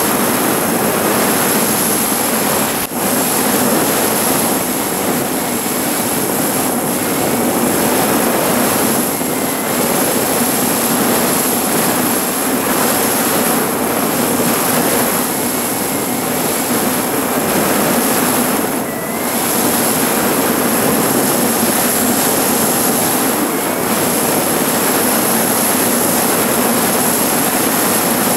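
Motorcycle riding at speed: a steady roar of wind on the camera microphone over the engine, with short dips about three seconds in and again near nineteen seconds.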